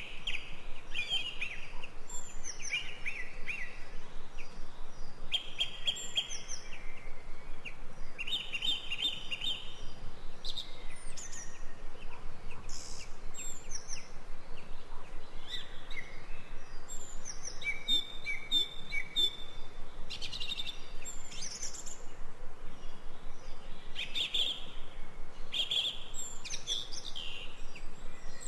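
Wild songbirds singing and calling in forest, many short chirping phrases repeated one after another, over a steady background hiss.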